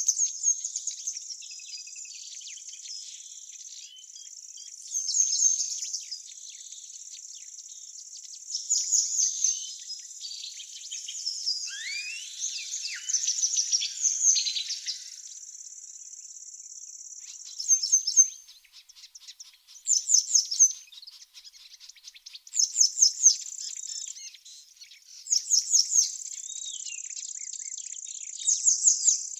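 Birds singing short, loud, trilled phrases every two to three seconds over a steady high-pitched insect trill. It sounds like an outdoor chorus of songbirds and crickets.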